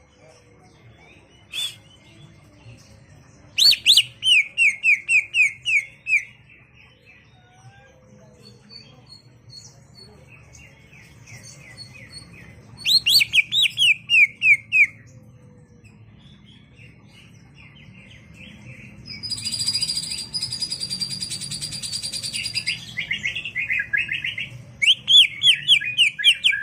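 A green leafbird (cucak ijo) singing: three bursts of rapid, repeated falling chirps, and in between a sustained high trilled phrase lasting about four seconds.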